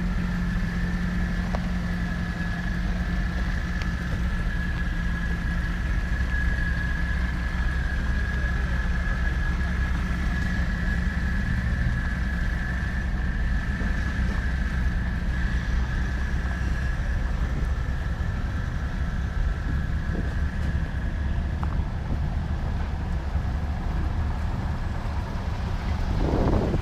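A car engine running steadily, a constant low rumble with a steady high whine over it.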